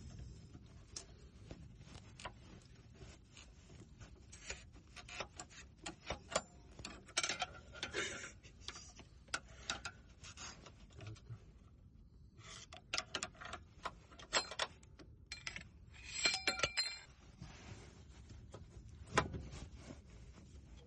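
Metal tools and parts clinking and knocking in irregular clicks, a few with a short ringing tone.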